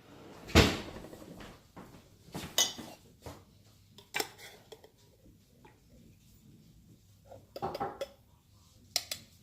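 Cups and dishes being handled, a series of separate clinks and knocks, the loudest about half a second in and a small cluster near the end.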